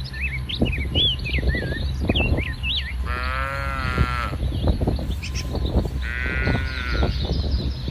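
Two drawn-out livestock calls: one about three seconds in, lasting over a second, and a shorter one about six seconds in. Birds chirp in the first few seconds, over a steady low rumble.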